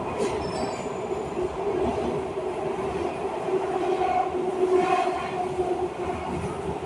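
MARTA Breda CQ312 rapid-transit car running between stations, heard from inside: steady wheel-on-rail noise with a droning motor hum.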